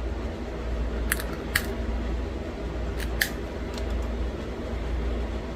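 Pressure flaking a small arrowhead from a thin stone flake: a handful of sharp little clicks and snaps as flakes pop off the edge, over a steady low hum.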